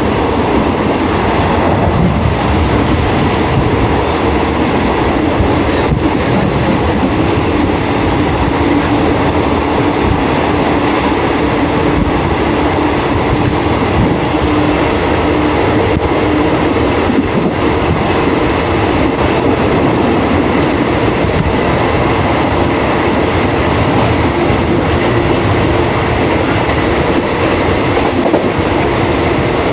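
Train running steadily along the track, with a continuous, even noise of wheels on rail and faint steady tones over it.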